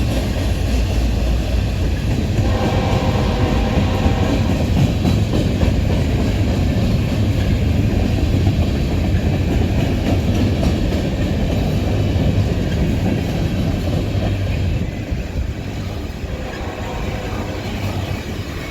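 CSX freight train rolling past at close range: a steady heavy rumble of the cars with wheels clacking over the rails, and a brief squealing tone a few seconds in.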